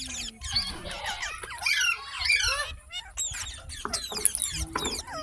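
Green parrot calling in a rapid run of short, squeaky chirps and whistles that slide up and down in pitch, with brief gaps between bursts.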